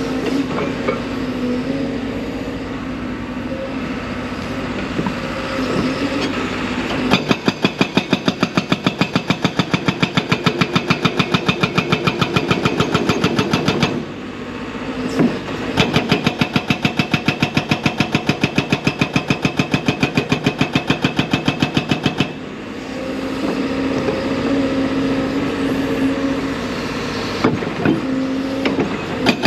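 Hydraulic rock breaker on a 55,000 lb excavator hammering rock in rapid, evenly spaced blows, in two long runs with the diesel engine running between them, and starting again near the end.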